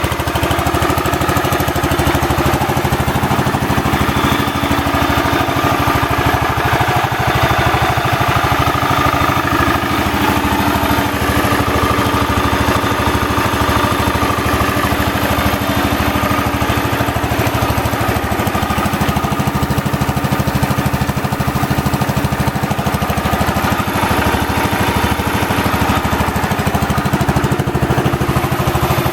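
Kohler K321 14 hp single-cylinder engine of a 1970 Wheel Horse GT-14 garden tractor running steadily, with a slight change in its note about two-thirds of the way through.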